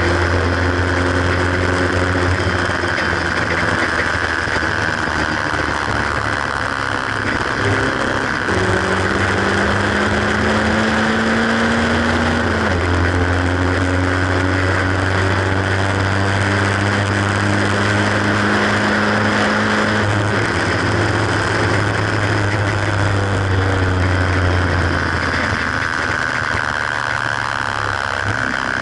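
Haynes Roadster kit car's 1800 engine driven hard on track, heard from the open cockpit over constant wind rush. The engine pitch climbs, drops with a gear change about twelve seconds in, climbs again, then eases off about twenty seconds in and stays lower near the end.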